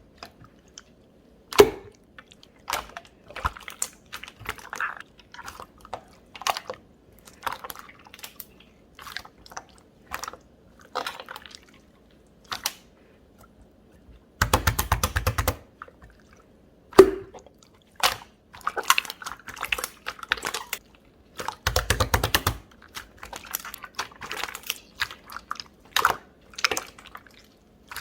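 Chewy, jelly-textured pearl slime being squished and poked by hand, making irregular sticky pops and clicks. Twice it breaks into a quick run of rapid crackling pops.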